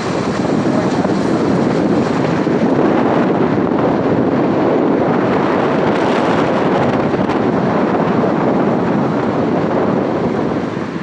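Wind buffeting the microphone over the rush of a car driving along, a loud steady roar that eases off near the end.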